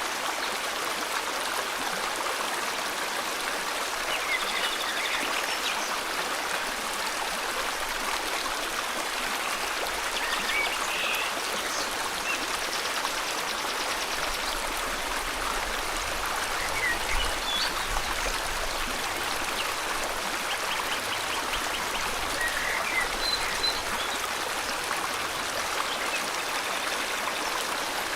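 River water flowing steadily, with scattered short bird chirps and trills over it.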